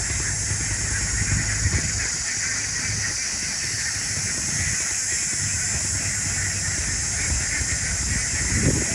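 Outdoor field ambience: a steady high-pitched hiss over low, uneven wind rumble on the microphone, which swells briefly about a second and a half in and again near the end.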